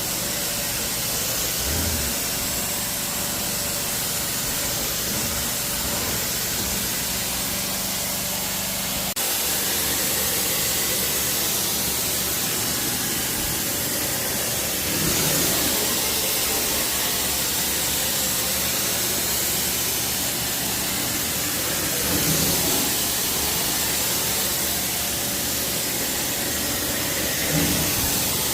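Hot-water carpet extraction: a steady hiss of spray and vacuum suction from a carpet-cleaning wand, over a low machine hum. A steady low hum drops out about nine seconds in, and the hiss swells briefly three times later on.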